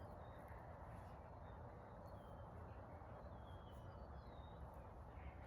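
Faint outdoor quiet: a low steady rumble with scattered short, high bird chirps.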